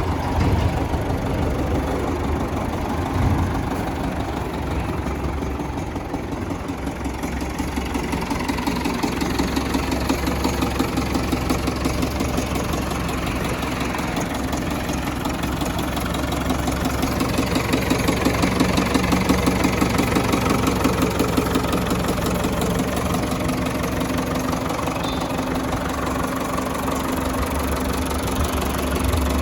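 Ford 641 Workmaster tractor's diesel engine running steadily at low speed with a knocking diesel clatter, its speed shifting slightly a few times.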